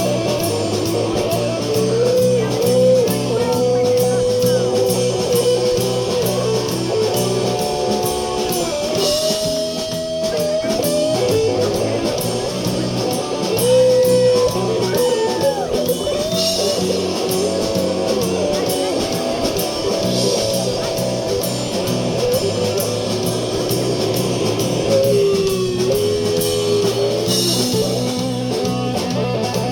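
Blues-rock band playing: an electric guitar lead with bent, sustained notes over bass and drums.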